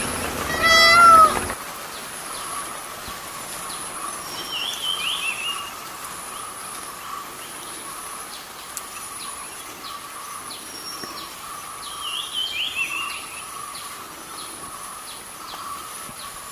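A cat meows once, a rising-then-falling call, and stops after about a second and a half. Then small birds chirp and warble twice over a steady, high background drone.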